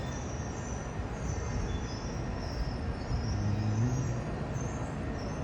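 Caltrain commuter train arriving at the platform: a steady rumble and rush of wheels on rails, with faint wavering high squeals. A low hum comes in about three seconds in.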